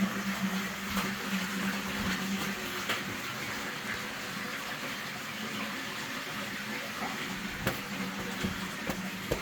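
Small waterfall splashing steadily inside a cave, a constant rushing hiss in the enclosed space, with a steady low hum underneath and a few faint clicks.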